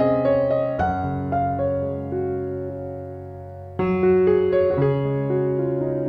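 Soft piano background music: chords struck about a second in and again about four seconds in, each fading away.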